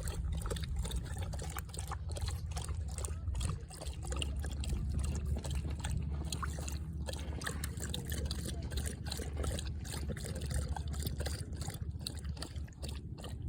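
A dog lapping water from the lake's edge, with many small irregular splashes and slurps over a steady low rumble.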